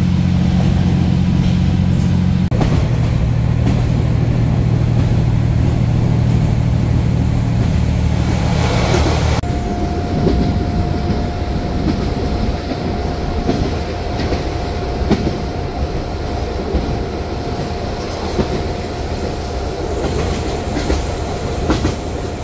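Diesel train running on the rails: a steady low engine drone for about the first nine seconds, which changes abruptly to a steady whine with scattered wheel clicks on the track.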